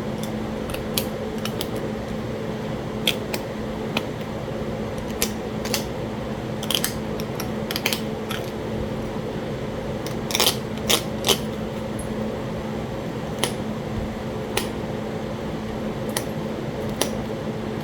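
Sharp clicks and taps of flintknapping on Talahata quartzite, coming at irregular intervals, with a quick run of three louder strikes about ten seconds in. A steady low hum runs underneath.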